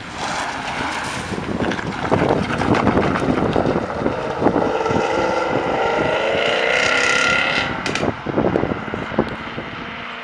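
Car engine accelerating hard, its note climbing steadily for several seconds, then backing off, with crackling and wind buffeting on the microphone; it sounds mad.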